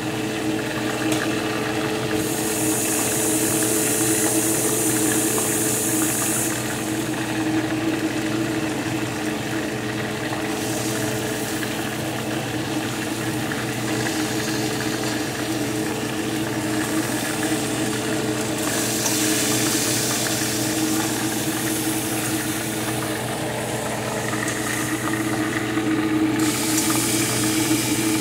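Chicken wings frying hard in oil in a pan, the sizzle swelling and fading several times, over the steady hum of a running fan.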